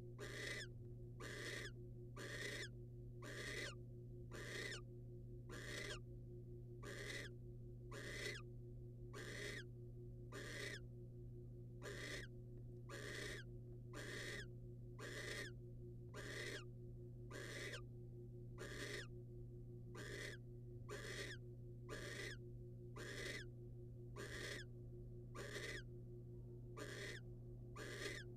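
Barn owl giving a long run of hissing snore calls, about one a second: the rasping begging call barn owls use to ask for food. A steady low electrical hum runs underneath.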